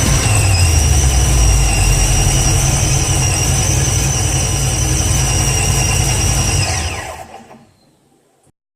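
Twin-supercharged 1968 Camaro engine running steadily with a high whine over it, then shut off about seven seconds in, the whine falling in pitch as it winds down to silence.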